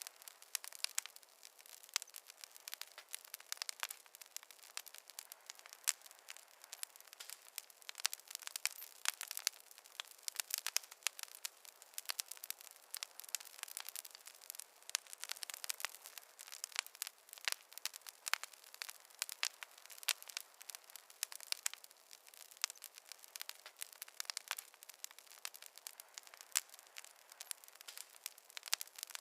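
Fireplace fire crackling: a dense, irregular run of small pops and snaps over a soft hiss, thin and without any low rumble.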